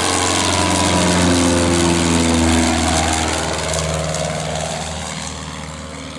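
Cessna 150's four-cylinder Continental O-200 engine at full power on a go-around, passing by: it swells over the first couple of seconds, drops in pitch as it goes past, then fades.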